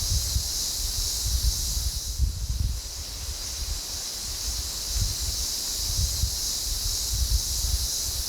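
Strong wind gusting against the microphone in low, uneven buffets, over a steady high hiss of wind-blown grass.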